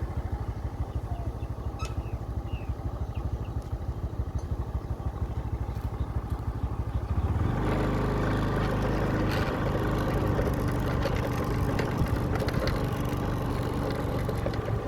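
A small engine running steadily, which gets louder from about halfway through, as when a motorcycle speeds up or comes closer.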